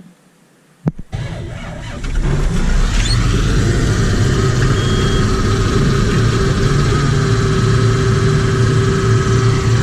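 Tractor diesel engine cold-starting: it cranks for about a second, catches about two seconds in, then runs at a steady idle.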